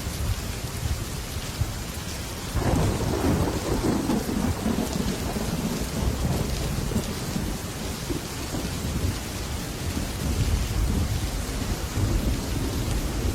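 Heavy rain falling steadily on a metal roof, with thunder: a rumble breaks in suddenly about two and a half seconds in and rolls on, slowly easing off.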